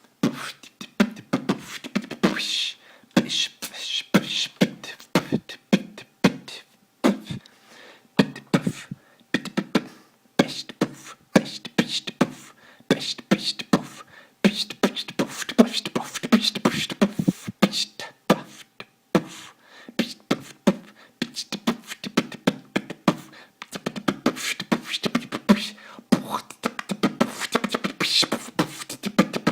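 A man beatboxing: fast rhythmic mouth percussion of kicks, clicks and snares mixed with short voiced sounds, broken by a few brief pauses.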